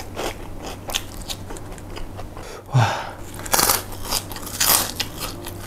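Close-miked chewing and biting of food, a run of wet, crunchy mouth clicks. There is a brief falling low hum about three seconds in.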